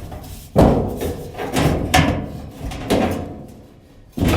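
Sheet-metal dryer parts knocking and clunking as a part is worked at an angle to set its lip in place: about five sharp knocks, the loudest about half a second in.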